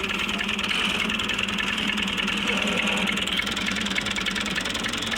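A vehicle engine running steadily at idle with a rapid, even beat.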